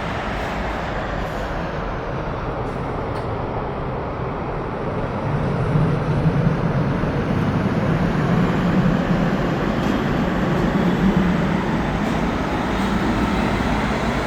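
Dubai Tram in motion: steady running noise with a low hum that grows louder about five seconds in.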